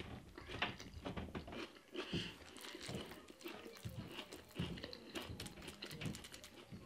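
A person chewing a mouthful of injera and stew, with many small clicks and mouth noises.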